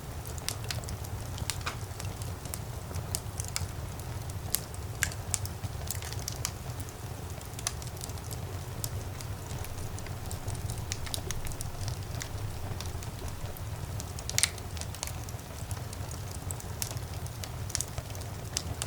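Wood fire burning in a fireplace: irregular crackles and pops over a steady low rumble of the flames, with one louder pop about three quarters of the way through.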